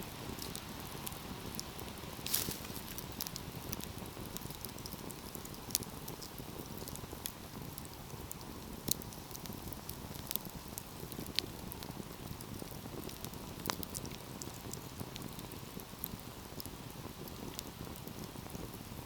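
Wood fire crackling: irregular sharp pops and snaps over a low, steady rush of burning, with one louder pop a couple of seconds in.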